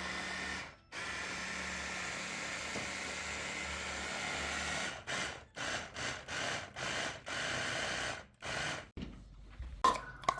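A small electric motor running steadily, cutting out briefly about a second in, then switched on and off in about six short bursts in the second half. A couple of light clinks near the end.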